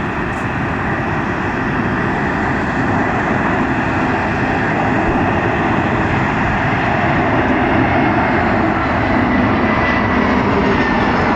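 Airliner engine noise, a steady roar that grows slowly louder.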